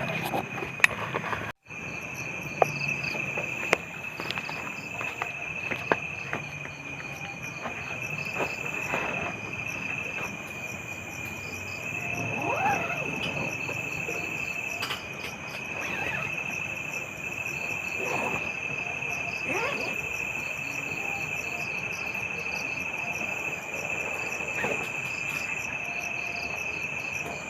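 Night insect chorus: a steady high-pitched cricket drone with faster pulsing trills above it. The sound cuts out completely for a moment about a second and a half in.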